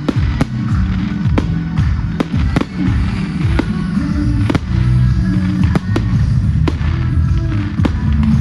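Fireworks bursting in a quick, uneven run of sharp bangs and cracks, roughly two or three a second, with music playing underneath.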